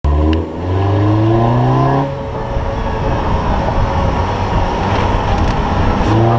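Car engine revving up as the car accelerates, its pitch rising over about two seconds, then a steady rush of road and wind noise while it drives, and a second rising rev near the end.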